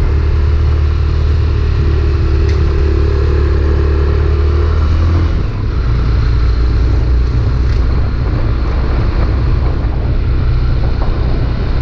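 Honda CB300R single-cylinder engine idling with a steady low rumble. About five seconds in, the engine note dips briefly and changes, then settles back to a steady run.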